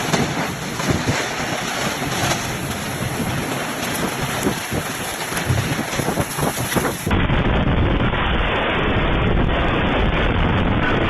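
Strong wind buffeting the microphone as a loud, steady rush of noise. About seven seconds in, the sound cuts to a duller, more muffled stretch of the same kind of storm noise.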